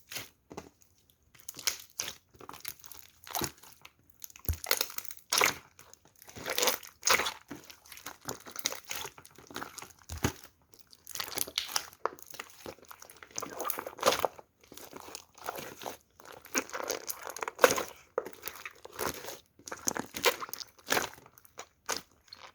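Clear slime being squished and pressed into a silicone pop-it toy, making irregular sticky pops, clicks and crackles.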